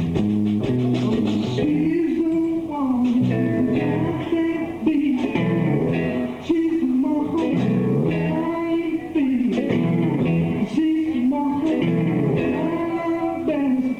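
A live bar band playing a blues-rock number: electric guitar with bending notes over bass and drums.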